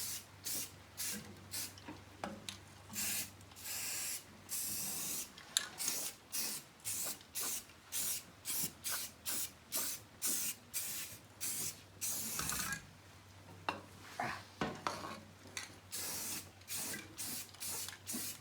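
Aerosol spray-paint can hissing in short, quick bursts, about two a second, with a few longer sprays, as white paint goes on in a light, thin coat.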